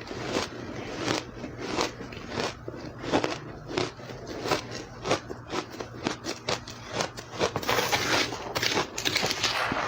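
A person biting and chewing ice close to the microphone: a quick, irregular run of crisp crunches, thickest near the end.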